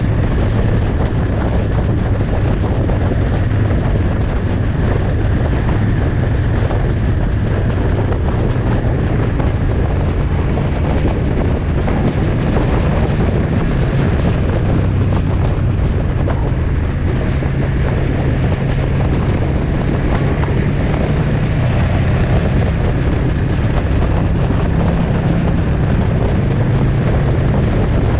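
Motorcycle engine running steadily at road speed under heavy wind rush on the microphone, its pitch rising and falling slightly.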